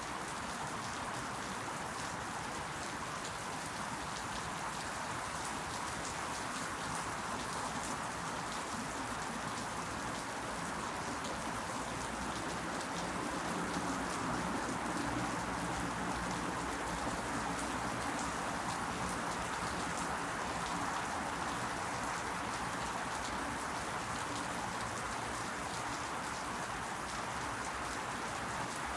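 Steady rain falling: an even hiss with the fine patter of individual drops.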